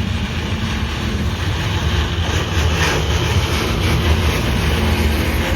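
Loaded freight cars rolling past in a backing move, their locomotive far off at the other end of the train: a steady low rumble of steel wheels on rail.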